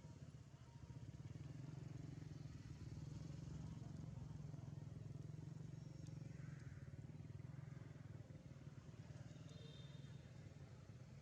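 Faint low hum of a distant motor vehicle engine, swelling in about a second in and easing slightly near the end.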